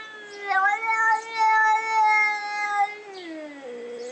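A cat's long, drawn-out meow, held at a steady pitch for about two seconds and then sliding down in pitch near the end.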